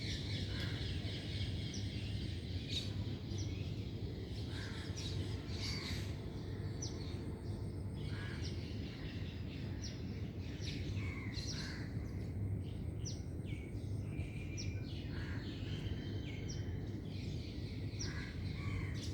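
Birds chirping and calling in short, scattered notes over a steady low background hum.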